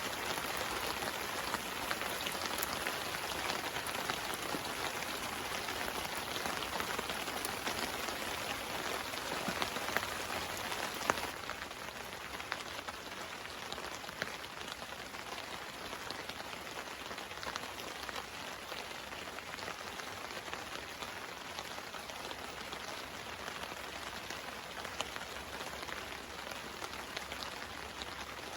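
Steady rain falling on a tarp overhead, a dense hiss of many small drop ticks; it becomes quieter about eleven seconds in.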